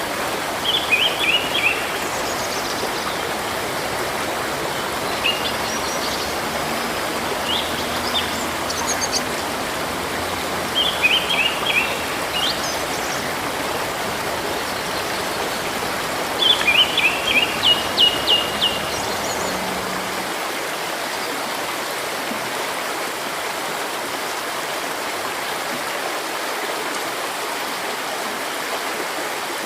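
Steady rush of a flowing stream, with small birds giving three bursts of quick high chirps and a few single calls in between, the longest burst about two-thirds through; after that only the water is heard.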